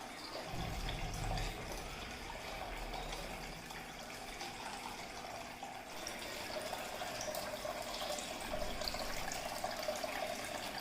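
Water trickling and splashing steadily down a small homemade cement fountain.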